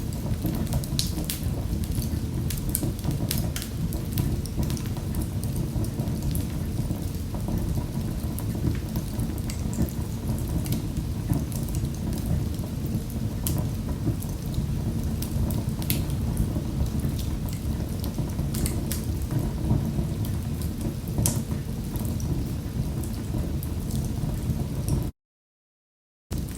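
Wood fire crackling in a fireplace: a steady low rumble of burning, with frequent sharp pops and snaps. The sound cuts out completely for about a second near the end.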